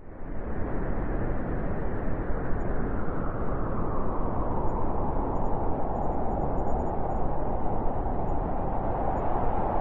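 Blizzard wind blowing hard: a steady, dense rushing noise that cuts in abruptly at the start and holds on unbroken.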